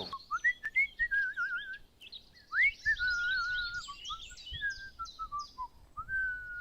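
Bird song: a running series of whistled notes and chirps, some held, some gliding up or down, with quick high twitters over them.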